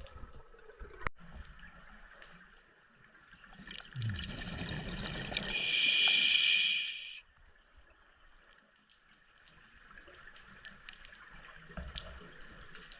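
Scuba diver breathing through a regulator underwater: a rush of exhaled bubbles about four seconds in, then the loud hiss of an inhalation through the regulator that cuts off sharply a little past seven seconds, over faint scattered clicks.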